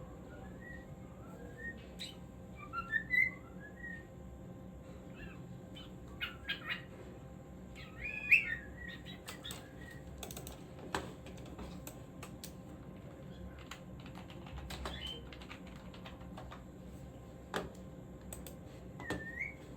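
Pet cockatiel giving short whistled chirps and rising and falling notes in scattered bursts, the loudest about eight seconds in, with a few sharp clicks between them.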